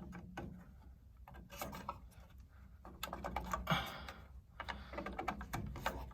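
Irregular small clicks and rustling of hands working wire leads and connectors onto a water heater's gas control valve, busiest about halfway through.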